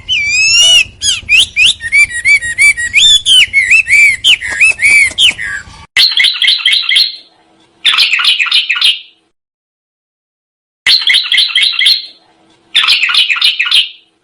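Recorded songbird song used as masteran training audio. First come varied, rapid whistled phrases with gliding notes over a faint hum. About six seconds in, it switches to a different song: four short bursts of tight, rapid rolling trills, each a little over a second long.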